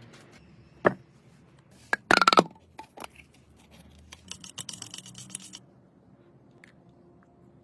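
Workshop handling sounds: a sharp knock about a second in, a loud clatter of ringing clinks around two seconds, then a second and a half of quick scratchy brushing or scraping strokes.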